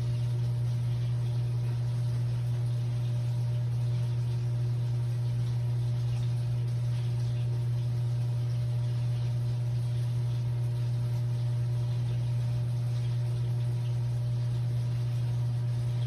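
Steady low electrical hum, with a few faint higher tones over it, from a small portable electric kettle heating water.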